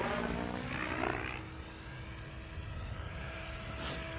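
Raw 580 electric RC helicopter flying in gusty wind: the rotor and motor whine slides in pitch over the first second and a half, then settles into a steadier hum, with wind rumbling on the microphone.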